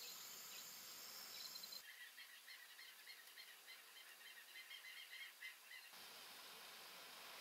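Near silence with faint outdoor ambience. In the middle, a small bird gives a faint run of short, repeated chirps, about four a second, which stops about six seconds in.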